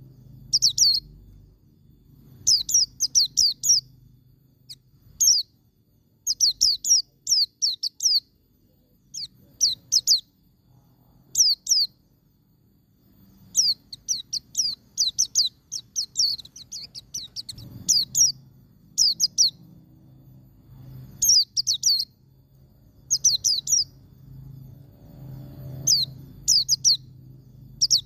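White-eye (pleci) singing in the 'ngalas' style: clusters of quick, high, sharply falling notes, repeated in bursts every second or two.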